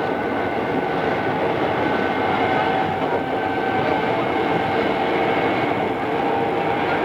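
Steady running noise heard on board an Odakyu 2600 series electric train, a constant rumble with a faint steady whine over it.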